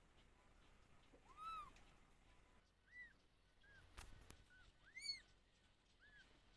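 A kitten mewing: about six thin, high calls, each rising and then falling in pitch, spaced irregularly. A single sharp click comes about four seconds in.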